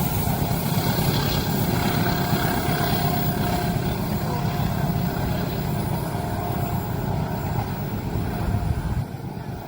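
Train passing close by: a steady heavy rumble and clatter of wheels on rail, which drops off sharply about nine seconds in.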